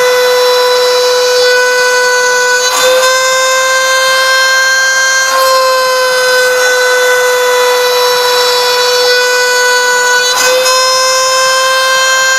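CNC router spindle running at high speed and cutting, a steady high-pitched whine. Its pitch shifts slightly, with a faint click, about 3 seconds in and again about 10 seconds in as the cutting load changes.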